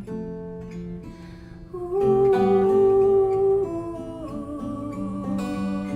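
Acoustic guitar playing the instrumental close of a slow song, with one louder note held for about two seconds a couple of seconds in.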